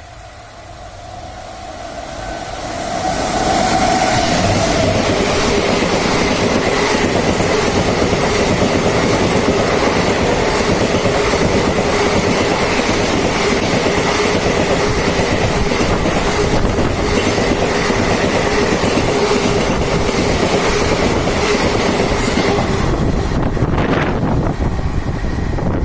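Superfast express train passing at high speed: the sound swells over the first few seconds into a loud, steady rumble and clatter of the coaches over the rails, with a faint steady whine. It cuts off suddenly near the end.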